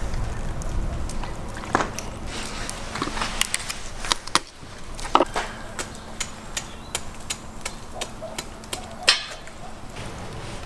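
Scattered clicks and taps of pieces of python meat being threaded onto metal skewers, with a few louder knocks around the middle and near the end, over a steady low hum.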